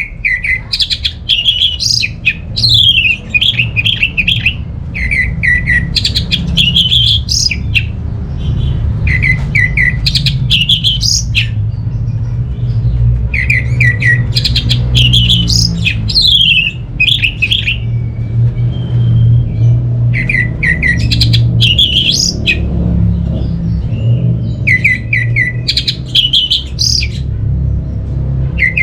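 Orange-headed thrush singing, about eight varied phrases a few seconds apart, each a quick run of notes that starts low and climbs higher, over a steady low rumble.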